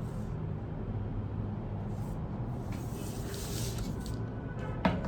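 Soft scratching of a line being drawn along a ruler on pattern paper, then a single sharp tap near the end, over a steady low hum.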